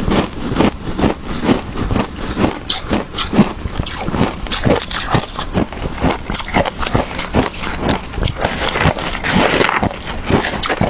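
Close-up crunching of shaved ice with matcha being bitten and chewed: dense, irregular cracks several times a second.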